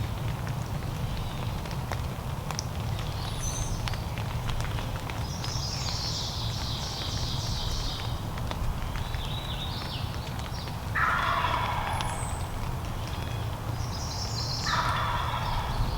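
A wild turkey tom gobbling twice, about two-thirds of the way in and again near the end. Songbirds sing high-pitched in between, over a steady low rumble.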